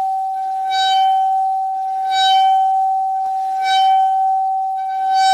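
Metal Chladni plate bowed at its edge, ringing on one steady, sustained note. It is bowed afresh four times, about every one and a half seconds, and each stroke adds a scratchy, bright edge over the tone.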